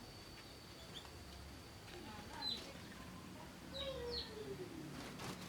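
Small aviary birds giving short, high chirps that drop in pitch, scattered through, with two close together in the second half.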